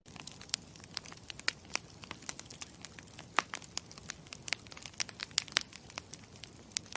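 Campfire crackling: a steady low rush of burning wood with many sharp, irregular snaps and pops.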